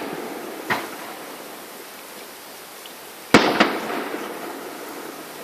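Fireworks exploding: a lighter bang about a second in, then a loud bang past the halfway point, followed almost at once by a second crack, each trailing off in echo.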